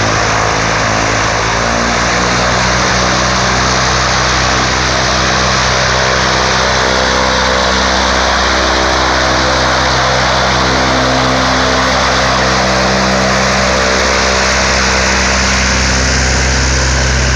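Single-engine propeller plane's piston engine and propeller running loud and steady close by, its pitch wavering only slightly.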